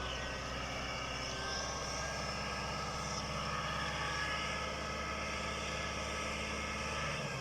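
Kubota M7040 tractor's diesel engine running at a steady speed, a constant drone, shifting slightly near the end.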